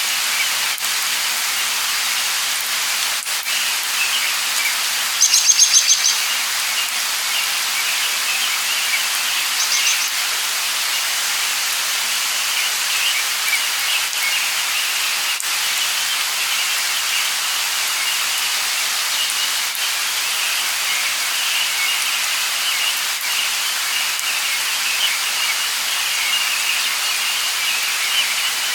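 Light rain falling steadily, with birds chirping throughout. A louder, quick trilled call comes about five seconds in, and a shorter one around ten seconds.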